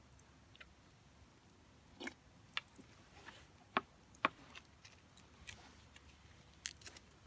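Wood fire crackling: scattered sharp pops and snaps at irregular intervals, a handful of them louder, over a quiet background.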